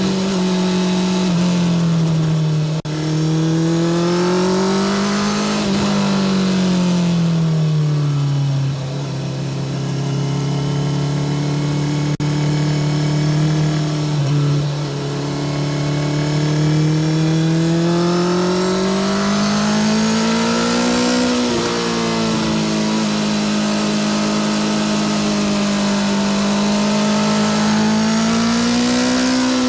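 Honda CBR650R's inline-four engine through a Spark full titanium exhaust, running under way. Its note climbs and drops several times as engine speed changes, with a long low steady stretch in the middle and a slow climb near the end.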